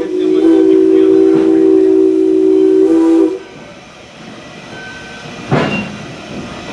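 Steam locomotive whistle, Valley Railroad Mikado #40's, blowing a loud held blast of several pitches together that cuts off about three seconds in. Then the quieter running noise of the train, with a short burst of noise about five and a half seconds in.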